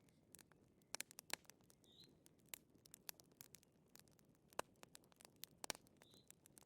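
Faint wood fire crackling: irregular sharp pops and snaps, a few louder than the rest, over a soft low hiss.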